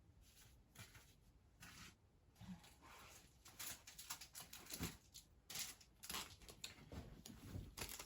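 Faint rustling and light knocks of paper envelopes and card being handled and sorted, scattered and irregular, busier in the second half.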